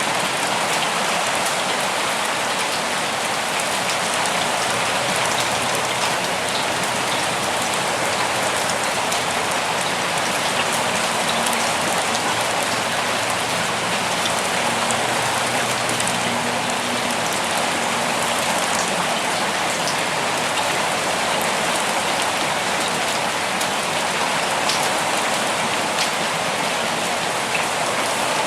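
Steady rain falling: a dense, even hiss with scattered sharp ticks of individual drops hitting close by.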